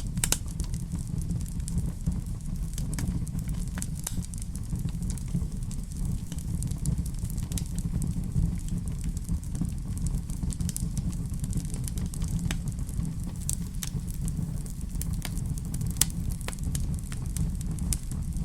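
Fireplace fire burning with a steady low rumble and irregular small crackles and pops, one sharper pop near the end.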